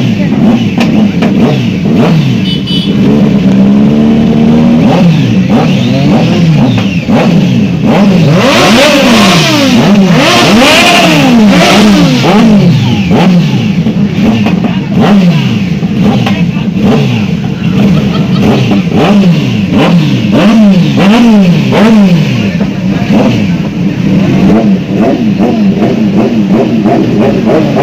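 Several motorcycle engines being revved again and again, their pitch rising and falling in quick overlapping blips.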